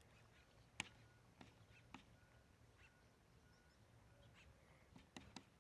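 Near silence: faint outdoor ambience with a few faint, scattered clicks.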